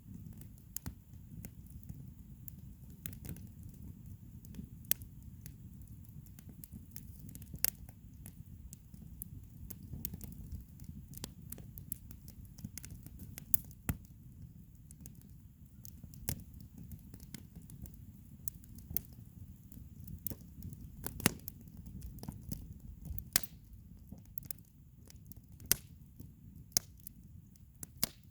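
Campfire crackling and popping, with sharp irregular pops a few times a second over a low steady rumble; a few louder pops stand out, the loudest about two-thirds of the way through.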